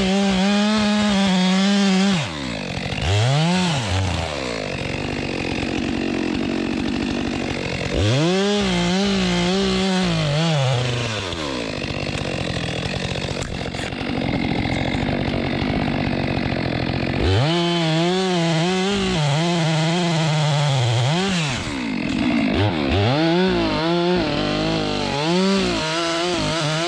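Two-stroke Stihl chainsaw bucking a downed log. The engine climbs to a high steady note and falls back four times, with rougher, lower running between as the chain works through the wood.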